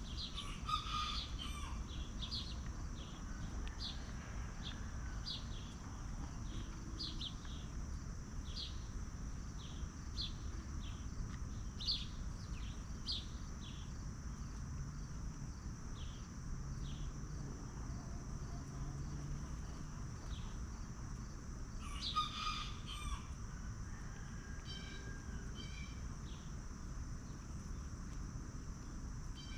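Small birds chirping outdoors, short high chirps about once a second, with louder flurries of calls about a second in and again about three-quarters of the way through. A steady high-pitched insect drone runs underneath.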